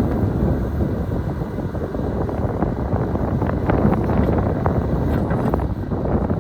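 Strong wind buffeting the microphone in a steady, loud rumble, with scattered short clicks and knocks through the middle.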